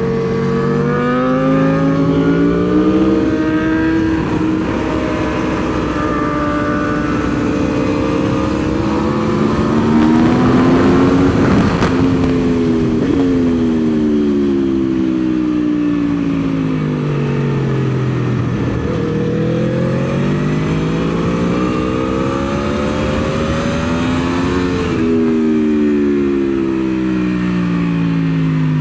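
The 2023 Aprilia Tuono V4's V4 engine heard from the bike on track. It is revved hard, its pitch climbing in steps through the gears. Twice, about twelve seconds in and again near 25 seconds, the pitch cuts back sharply and falls away as the throttle closes for braking, before it climbs again.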